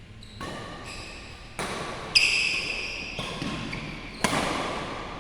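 Badminton rackets striking a shuttlecock in a rally: sharp hits about once a second, each ringing on in the large hall, the loudest about two seconds in and again near four seconds.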